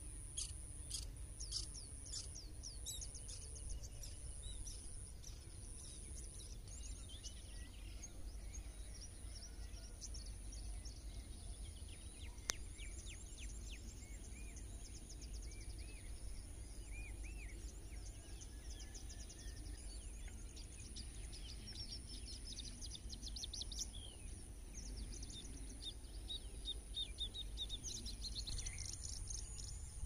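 Small birds chirping and calling in the scrub: quick high chirps repeated throughout, with some lower, curving calls in the middle, over a steady low rumble.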